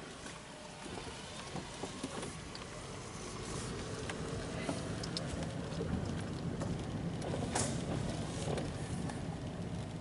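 Car driving slowly, heard from inside the cabin: a steady low rumble of engine and tyres that slowly gets louder, with scattered light ticks.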